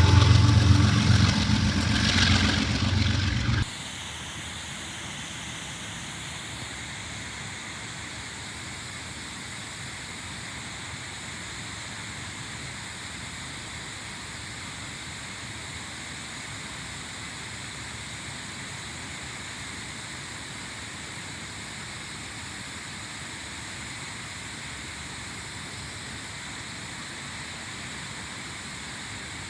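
Diesel freight locomotive running loud and low, cut off suddenly about three and a half seconds in. After the cut there is only a steady, even hiss of background noise.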